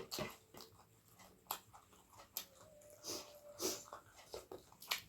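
Close-up eating sounds: chewing with wet lip smacks and clicks, coming at an irregular pace. A faint thin whine is held for about a second in the middle.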